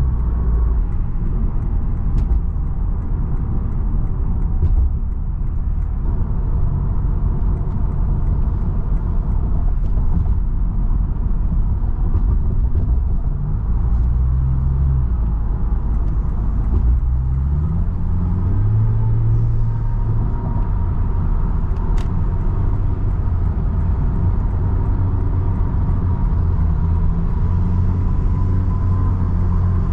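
2016 Lexus IS 200t's 2-litre turbo four-cylinder running under way through an axle-back exhaust with the mufflers deleted, a steady low rumble. The engine note climbs in steps around the middle.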